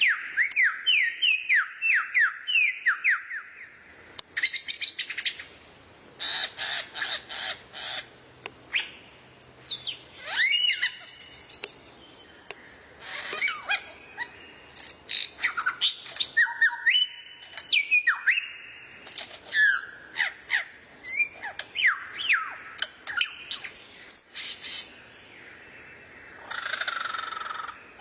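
Songbird singing a varied, rapid song of quick falling whistles, chips and rattling trills, with a buzzy held call near the end.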